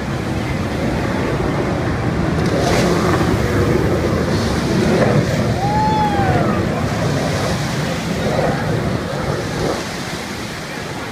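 Steady rushing of breaking surf and wind on the microphone, swelling slightly toward the middle and easing near the end, with one short gliding call about halfway through.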